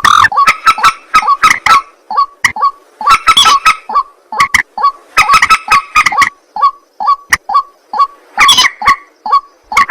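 White-breasted waterhen (ruak-ruak) calling loudly: a steady run of short, repeated croaking notes, about two to three a second, broken by louder, busier bursts of calling several times.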